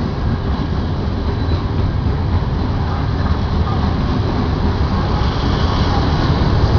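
Diesel train rumbling steadily, a low rumble that slowly grows louder.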